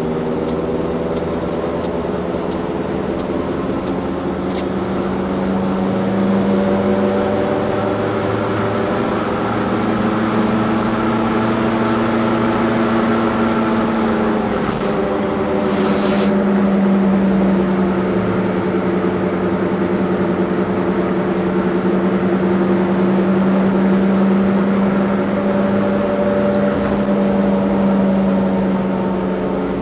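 Car engine running under acceleration, a steady drone whose pitch rises and falls gently as engine speed changes. A short hiss about sixteen seconds in.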